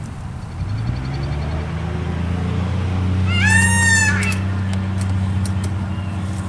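A steady low hum with a single drawn-out animal call about three seconds in, rising then easing off over about a second.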